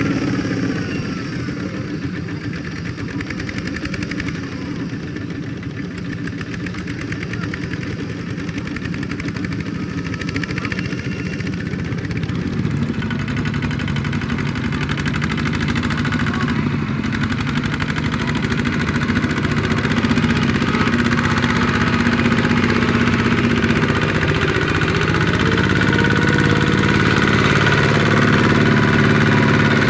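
Small Kubota tractor's engine running steadily with a fast, even firing beat, growing louder toward the end.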